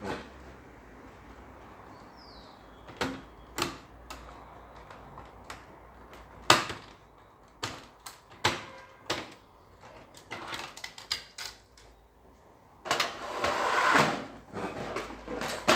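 Handling noises: a string of separate sharp clicks and knocks, with a longer scraping, rustling stretch near the end.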